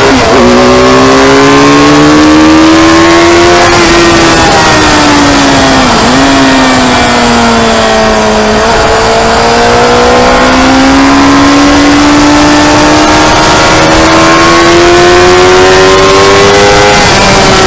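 Motorcycle engine running hard at speed on a race track, its pitch climbing slowly with short dips about six seconds in, near the middle and near the end as gears change.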